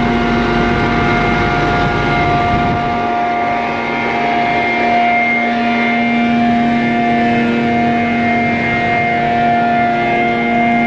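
Truck-mounted vacuum equipment running loud and steady: a constant drone with a fixed whine in it that holds the same pitch throughout.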